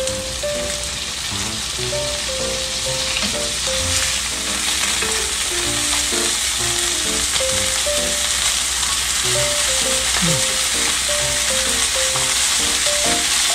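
Oysters dusted in potato starch sizzling in butter in a frying pan as they are turned with tongs, the sizzle growing a little louder over the first few seconds as the pan heats. Light background music plays a simple melody throughout.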